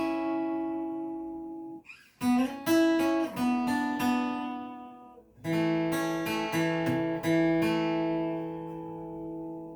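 Acoustic guitar strumming chords in groups, stopping briefly twice, then a last chord left to ring and slowly fade.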